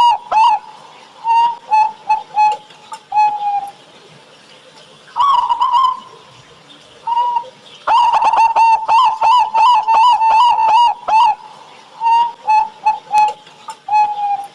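Local Javanese perkutut (zebra dove) cooing its thick-voiced song. A phrase begins with a fast run of notes, breaks into spaced notes and ends on a longer, slightly falling note. The phrase repeats several times.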